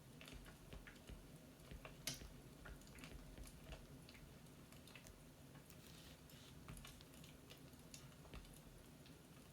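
Faint crackling of a fireplace: irregular small pops and clicks, one sharper pop about two seconds in, over a low steady hum.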